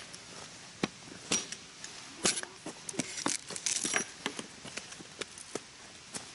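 A run of irregular sharp clicks and light clinks, thickest in the middle and sparser toward the end.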